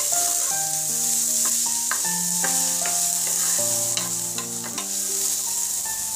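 Chopped vegetables (long beans, carrot and green peas) sizzling in hot oil in a nonstick frying pan, stirred with a wooden spatula that clicks and scrapes against the pan now and then. Soft background music with held notes plays under the sizzle.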